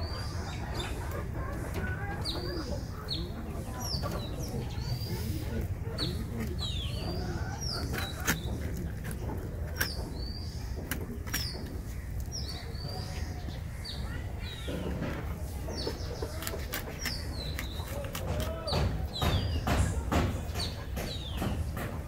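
Birds chirping with many short, high, falling calls repeated steadily, with sharp clicks and scrapes from the fish being scaled and cut on the blade, loudest a few times near the end.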